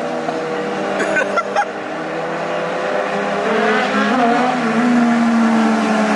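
Sport motorcycle engine running hard, its note climbing about three and a half seconds in and staying high.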